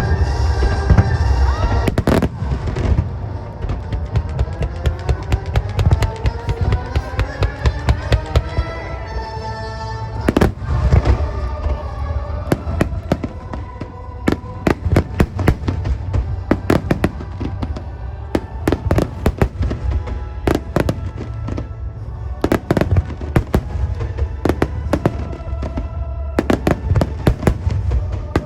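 Aerial firework shells bursting in rapid, irregular succession during a fireworks finale, the bangs echoing, with music playing along with the display.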